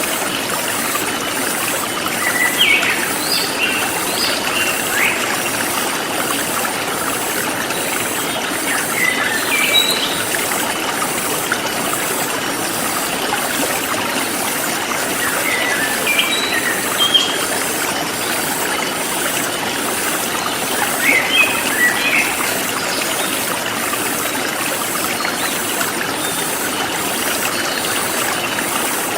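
Forest stream flowing steadily, with a bird calling in short phrases about every six seconds and a high insect chirr pulsing about twice a second.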